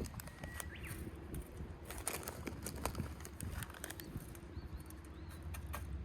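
Light, irregular clicks and rattles of beech smoking chips being handled and tipped into a mess-tin smoker.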